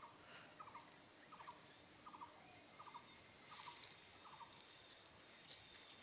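A bird giving a faint short call over and over, about once every three-quarters of a second.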